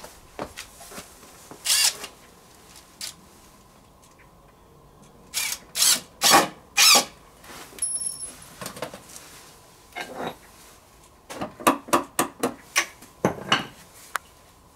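A tool working wood in short separate bursts: a few strokes in the middle, then a quick run of about eight to ten near the end.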